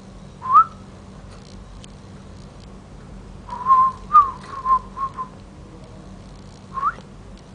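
A person whistling to a caged bird to coax it to call. A short rising whistle, then a quick run of about five short whistled notes, then another short rising whistle near the end.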